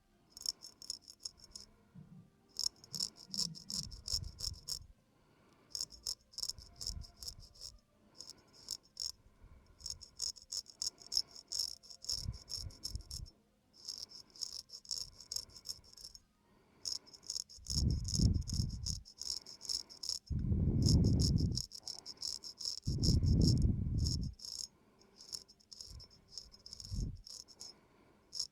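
Razor scraping across a man's face in quick short strokes: rapid, crisp scratching that comes in runs of a few seconds with brief pauses. Deeper, duller rumbles come in a few times in the second half.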